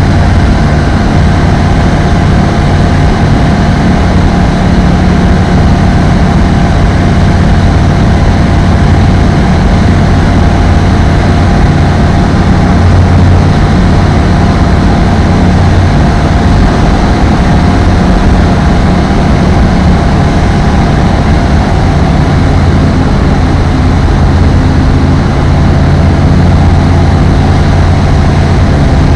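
Apollo Fox ultralight aircraft's engine and propeller droning loud and steady, with an unchanging low hum.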